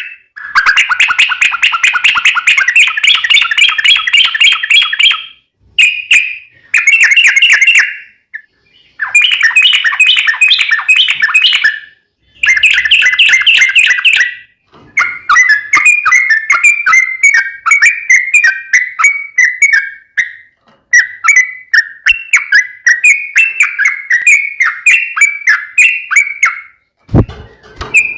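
Yellow-vented bulbul (trucukan) singing a long rapid-fire song: bouts of fast chattering phrases broken by short pauses, then a run of quick repeated falling notes, about three to four a second. A brief low bump near the end.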